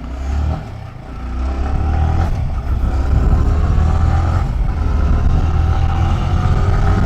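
Motorcycle engine pulling away and picking up speed, heard from a helmet-mounted camera: the sound dips briefly about half a second in, then builds from about a second in and holds loud and steady.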